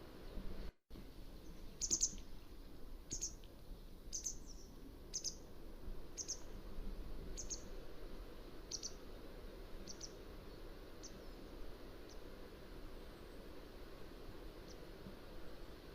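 Mountain wagtail giving a series of short, high, sharp calls, about one a second, starting about two seconds in and growing fainter toward the end, over a steady low background hiss. The sound drops out for an instant just under a second in.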